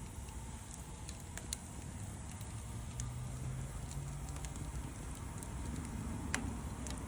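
Wood fire crackling, with scattered sharp pops, the loudest about six seconds in, over a low steady rumble.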